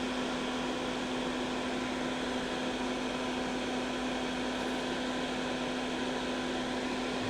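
Steady electric hum with an even fan-like rush, one unchanging tone with fainter overtones above it.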